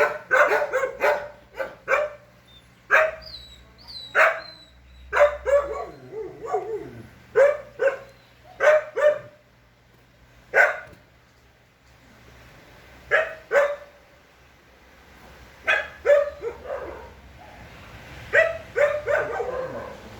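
A dog barking repeatedly in irregular runs of short, sharp barks, with a lull of a couple of seconds about halfway through.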